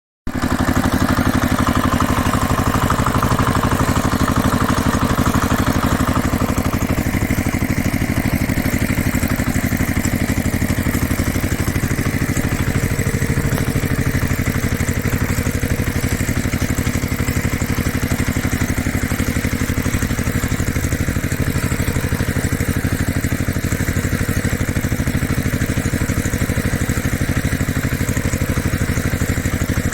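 An engine idling steadily with an even, rapid firing beat.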